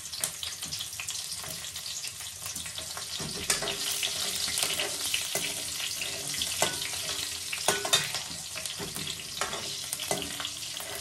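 Green chillies frying and sizzling in hot oil with mustard seeds and cumin in a metal kadai. A metal ladle stirs and now and then knocks against the pan.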